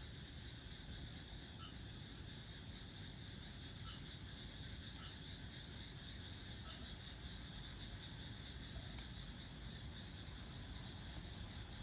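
Wood fire burning quietly in a compact secondary-combustion fire stand, with scattered sharp crackles and pops over a low steady rumble. A steady high chirring of insects runs underneath.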